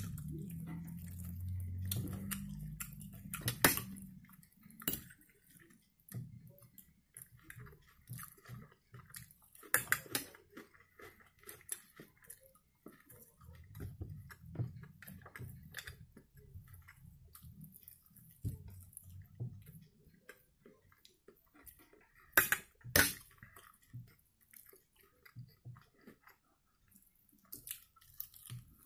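Close-miked chewing of smoked mackerel and boiled potatoes, soft mouth sounds broken by a few sharp clicks, two of them close together about two-thirds of the way through.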